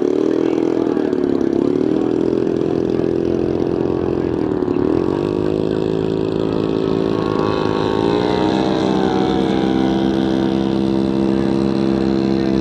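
Moki radial engine on an RC Corsair model running on the ground. Its speed wavers up and down for the first few seconds, then settles to a steady run about eight seconds in.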